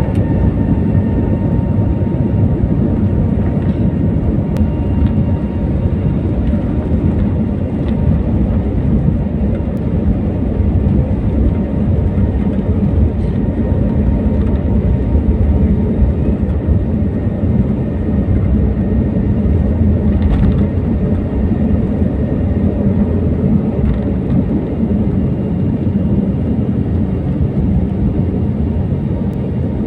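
Airliner's jet engines at takeoff power: a loud, steady rumble with a faint high whine above it.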